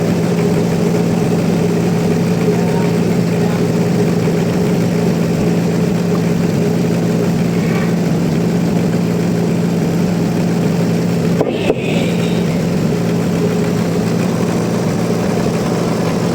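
Sawmill machinery running steadily, a constant engine-like drone that holds the same pitch throughout. There is a brief click about eleven and a half seconds in.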